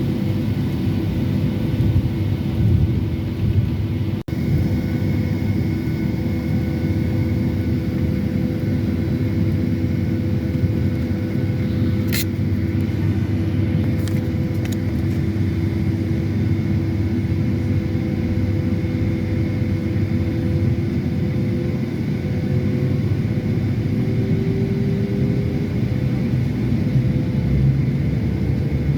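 Cabin noise inside a Boeing 757-300 airliner: the steady rumble of the jet engines and airflow, with a few steady engine tones running through it. A short sharp click sounds about twelve seconds in.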